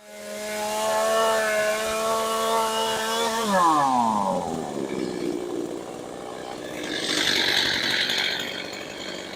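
Two-stroke chainsaw running at high revs with a steady high whine; about three and a half seconds in its pitch falls as the revs drop, and a rougher, hissing sound follows and swells again near the end.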